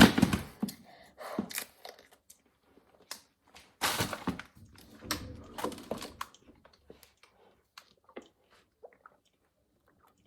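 Plastic water bottle being handled and squeezed: irregular crinkles, crunches and knocks that thin out to a few faint clicks after about six seconds.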